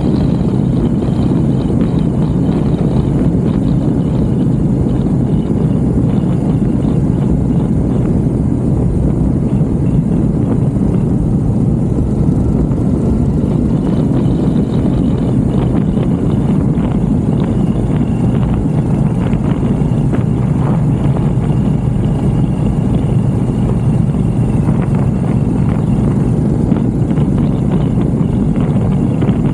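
2014 Moto Guzzi V7 Racer's 750cc V-twin engine running at a steady cruising speed, with road and wind noise.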